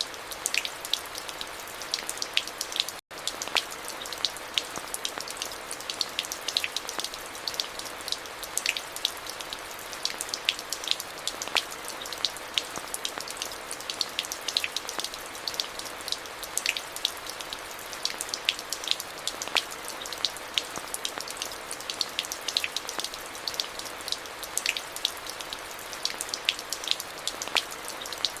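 Steady rain falling, a constant hiss with many close, crisp drops ticking on a surface. The sound cuts out for an instant about three seconds in.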